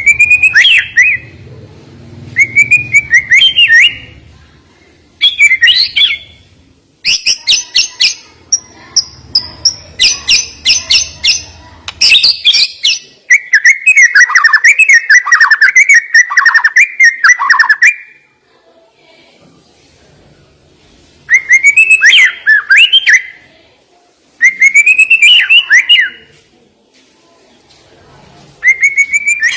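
White-rumped shama (murai batu) singing loud, sharp song phrases separated by short pauses: whistled phrases, a run of rapid rattling notes, and a long warbling passage of mimicked calls.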